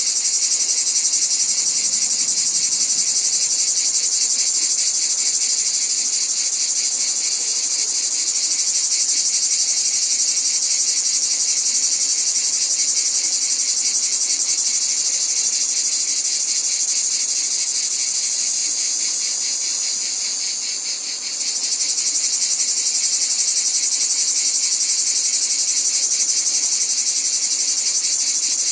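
Dense, steady chorus of crickets or similar insects, a continuous high pulsing trill, dipping briefly about two-thirds of the way through.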